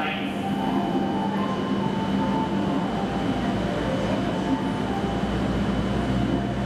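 Steady electrical hum and low rumble of W7 series Shinkansen trains standing at the platform, with a thin high whine held throughout. The low rumble grows a little louder about five seconds in.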